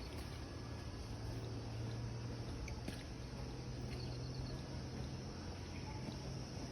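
Tropical forest ambience: steady insect chirring with a few short high trills, over a low steady hum.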